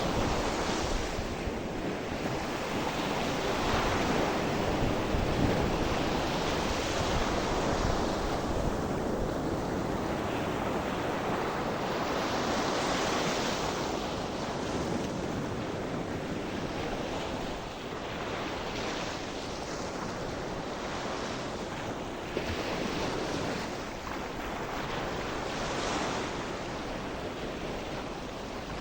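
Sea surf: waves breaking and washing ashore in slow swells every few seconds, over a steady rush of water, with some wind.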